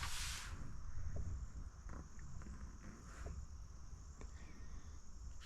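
A steady high-pitched insect chorus, like crickets, runs in the background. A brief rustle comes at the start, and a few faint light clicks follow.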